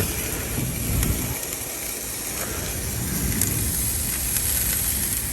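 Sausages and vegetables sizzling over charcoal on a Big Green Egg grill, a steady hiss under a fluctuating low rumble.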